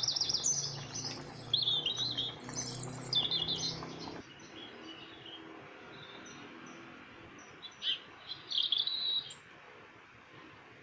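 Small birds chirping and trilling in quick high runs, dense for the first four seconds, then sparse with a few chirps again near the end. A low steady hum sits under the first part and stops abruptly about four seconds in.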